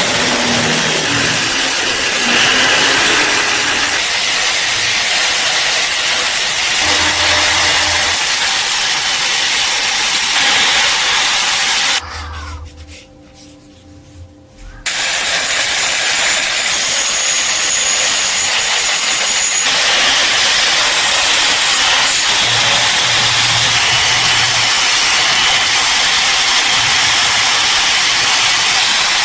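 Steady, loud hissing noise from a workshop tool. It cuts out for about three seconds near the middle, then starts again.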